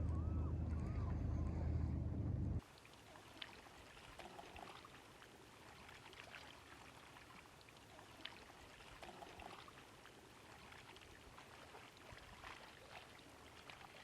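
A low steady hum cuts off abruptly about two and a half seconds in. After it comes a faint trickle and drip of water, with small scattered splashes.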